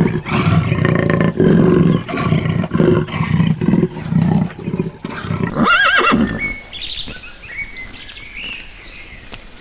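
A big cat giving a run of deep, pulsing roars that stop about halfway through. Then comes one short, wavering high call, and fainter high calls near the end.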